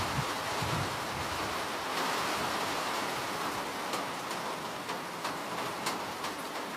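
Steady rain: a dense, even hiss with a few sharper drop ticks here and there, and a low rumble in the first second.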